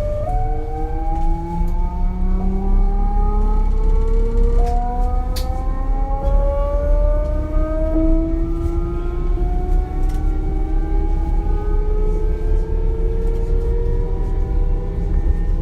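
Class 425 electric multiple unit's traction converters singing as the train accelerates: several tones gliding slowly upward, jumping up in pitch now and then, over the low rumble of the running train, heard inside the coach.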